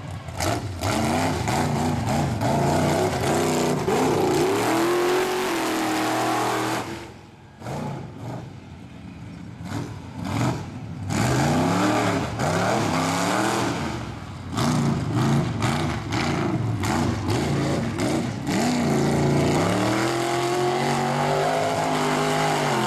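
Mega truck's big engine revving hard and falling back again and again, the pitch climbing and dropping with each blip of the throttle, with a brief easing off about seven seconds in.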